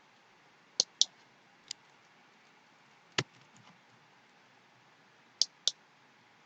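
A computer mouse clicking about six times, including two quick pairs, over a faint steady hiss.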